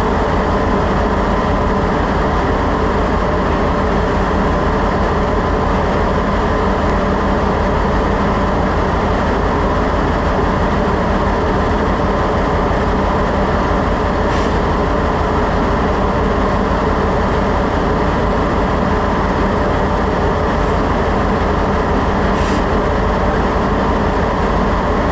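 Ship's engine-room machinery running with a loud, steady drone and hum, several even tones held throughout. Two faint ticks sound, about halfway and near the end.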